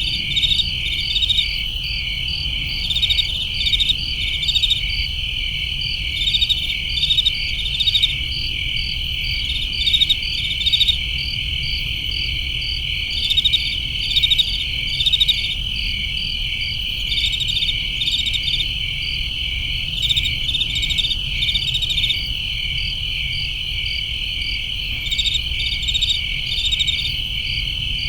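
Crickets chirping on a summer night: a steady high trill with short groups of chirps recurring every second or so, over a low rumble.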